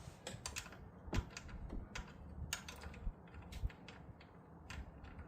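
Irregular light clicks and taps of hand tools and parts being handled on the snowblower, with a sharper knock about a second in.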